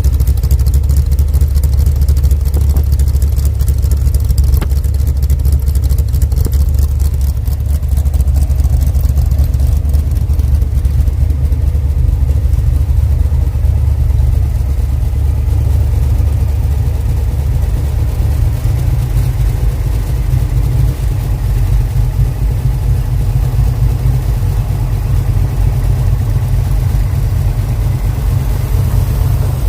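Car engine running steadily with a deep, even drone and no squeak, the sign that the squeak has been cured. The engine note shifts slightly lower about two-thirds of the way through.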